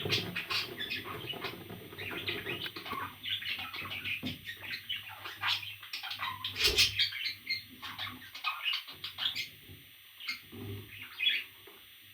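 A pet parrot chirping and chattering in many short calls, with scattered small clicks and one louder knock about seven seconds in.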